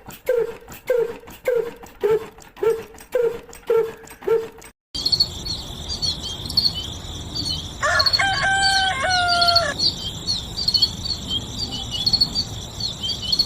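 Rhythmic knocking about twice a second, which cuts off abruptly about five seconds in. Then steady cricket and bird chirping, with a rooster crowing once, about eight seconds in.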